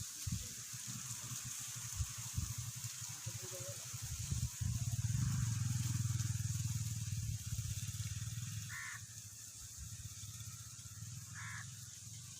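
Low engine rumble that comes in suddenly about four and a half seconds in, holds, then fades away after about eight seconds. Two short chirps are heard near the end.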